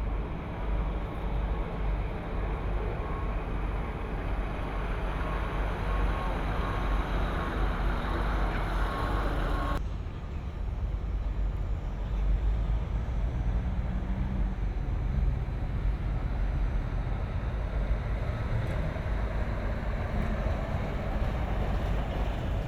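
Steady low rumble of engines, like heavy vehicles or machinery running. The sound changes abruptly about ten seconds in.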